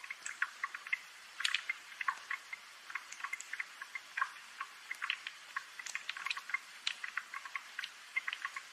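Rain dripping: many light, irregular ticks and drips, scattered close together.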